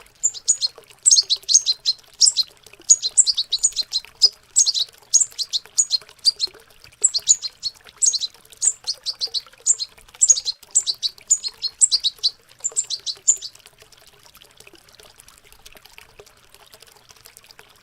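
Young European goldfinches babbling their practice subsong: rapid, high twittering chirps that stop about three-quarters of the way through. A faint sound of running water continues underneath.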